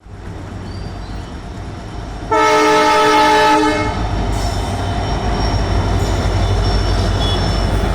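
Indian Railways WDP4D diesel locomotive sounding its horn in one blast of about a second and a half, a little over two seconds in, over the rumble of the train, which grows and then runs on loud and steady with the diesel engine after the horn stops.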